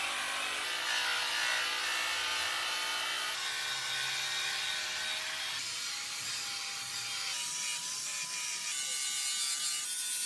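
Rotary buffer running with a flannel polishing pad on metal, a steady motor whine whose pitch shifts every second or two as the pad is worked and the load changes.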